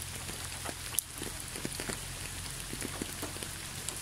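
Rain falling steadily, many separate drops ticking, with one sharper drop about a second in.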